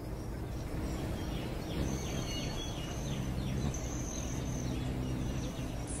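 Birds chirping in quick short falling chirps, with a high thin whistle that comes and goes, over a steady low background rumble.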